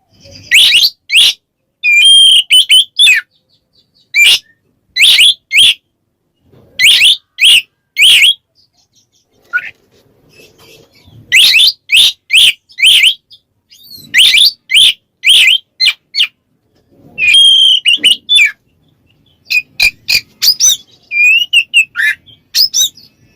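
Oriental magpie-robin singing loud, clear whistled notes in short groups of two to four, with pauses between. This open 'ngeplong' song is a male calling out a rival.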